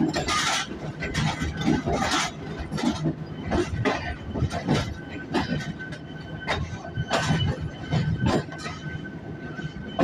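Green Line Express train pulling out of the station: rolling wheels clank irregularly over rail joints and points over a steady low rumble. A faint thin steady whine comes in about halfway through.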